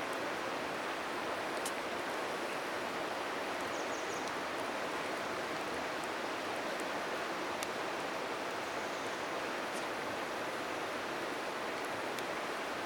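River water rushing steadily, with a few sharp faint crackles from the bonfire and a short high bird chirp about four seconds in.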